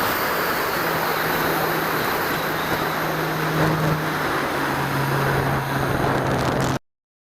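Wind rushing over an onboard camera's microphone with the steady drone of a twin-electric-motor RC airplane's propellers, which drops slightly in pitch about four and a half seconds in. The sound cuts off abruptly near the end.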